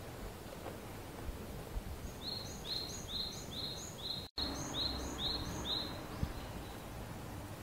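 A small songbird singing a quick two-note phrase, a high note then a falling lower note, repeated about ten times in a steady rhythm from about two seconds in, over a steady low outdoor background hum. The audio cuts out for an instant in the middle of the song.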